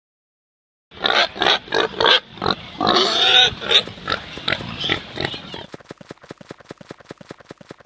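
Pigs grunting and squealing, then a fast, even run of short grunts that grows fainter.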